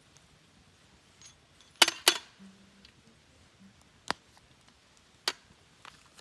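A few sharp clinks and knocks of small hard objects being handled: two loud ones close together about two seconds in, then single ones about two and three seconds later.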